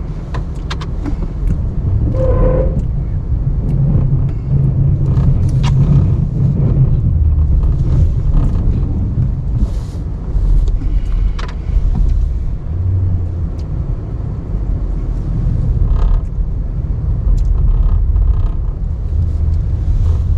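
Ram 1500 pickup's engine running under changing load as it pushes snow with its plow blade, the low rumble rising and falling, with scattered creaks and clicks.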